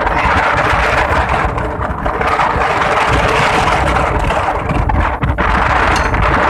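Strong wind blowing across the microphone, a loud steady rumble and rush with faint steady tones underneath.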